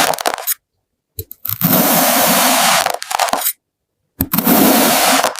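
Kinetic sand being sliced with a blade, a crisp crunching scrape: the tail of one cut at the start, then two long cuts of about two seconds each, with dead silence between them.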